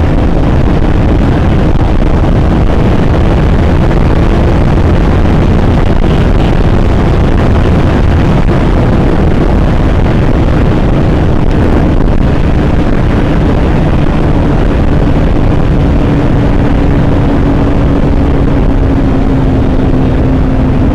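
Motorcycle engine running steadily at cruising speed under heavy wind noise on the microphone, its pitch easing slightly lower near the end.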